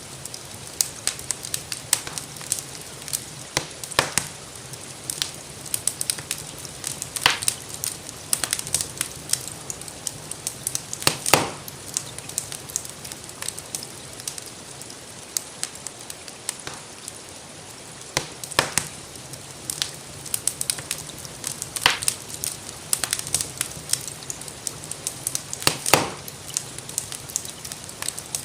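Wood fire crackling in a fireplace, with frequent small snaps and a louder pop every few seconds, over a steady hiss of rain.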